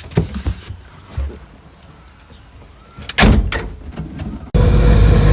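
A few light knocks, then a car door slamming about three seconds in. Near the end the sound cuts suddenly to the steady low rumble of the car driving, heard from inside the cabin.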